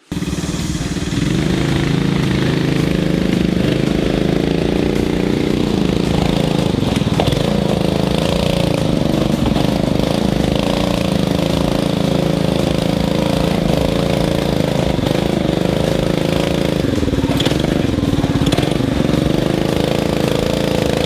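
Coleman CT200U mini bike's small single-cylinder four-stroke engine running under load while riding. Its pitch wavers, then drops and rises again a few times near the end as the throttle changes.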